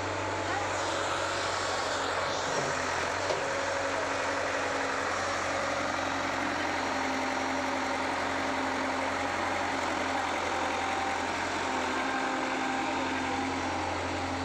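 Diesel engine of a piece of heavy construction equipment running steadily, with a constant low hum.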